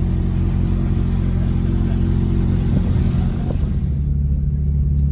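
Car engine running steadily, a low drone. About 4 s in the engine note shifts slightly.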